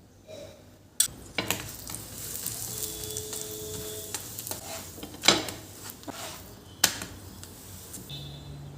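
Food sizzling in a hot pan while a utensil stirs it, knocking sharply against the pan a few times. The sizzle starts about a second in and stops shortly before the end.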